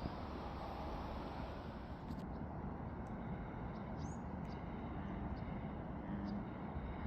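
Steady outdoor background noise, a low, even rumble, with a few faint, short high chirps scattered through the second half.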